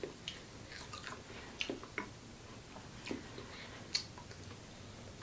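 A person chewing noodles close to the microphone: irregular wet mouth smacks and clicks, the sharpest about four seconds in.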